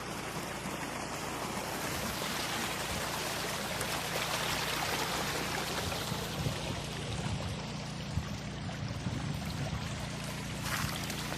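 Water gushing from a petrol-engine water pump's discharge, over the steady hum of the pump's small petrol engine.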